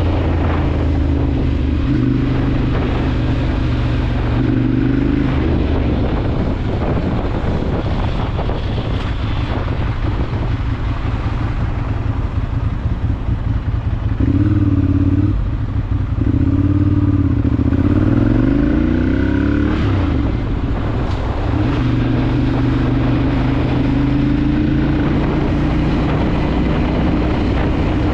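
Ducati Monster 796's air-cooled L-twin engine running while riding, mostly at a steady speed, with the engine note rising and falling several times around the middle.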